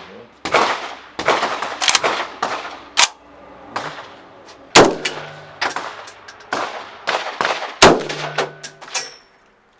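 A series of about a dozen gunshots at irregular intervals from several guns. Two much louder, close rifle shots from an SVD Dragunov sniper rifle come about five and eight seconds in, each followed by a short low ring.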